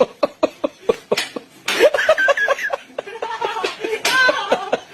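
A person laughing in quick rhythmic bursts, then voices talking and laughing together.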